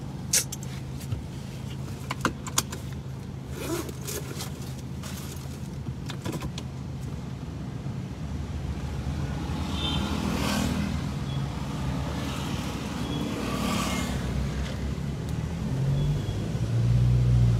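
Car engine idling, heard from inside the cabin, with a few sharp clicks in the first three seconds. From about halfway the engine grows louder as the car moves off, loudest near the end.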